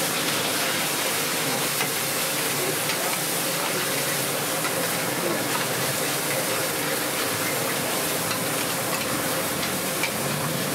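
Oysters in egg batter sizzling in oil on a wide, shallow pan, with metal spatulas scraping and turning them and giving off light clicks against the pan.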